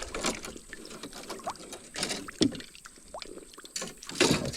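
Fishing rods and gear being handled in a small boat: irregular knocks and rattles against the hull, loudest near the end.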